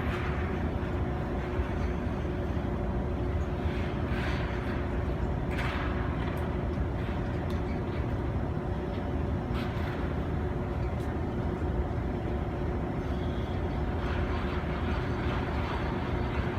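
Steady low hum of ice-rink machinery, with brief scraping swishes of figure skate blades cutting the ice a few times.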